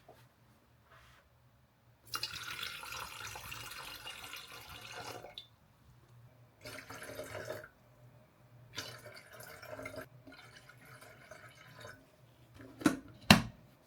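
Tap water running into an electric kettle for about three seconds, then a few shorter runs of water. Two sharp clicks near the end.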